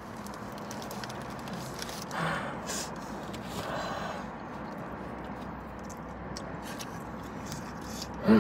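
A man chewing a big mouthful of birria taco with his mouth closed, faint mouth and chewing noises over a low steady hum, with two soft swells of sound about two and four seconds in. A brief, louder voice sound falling in pitch comes right at the end.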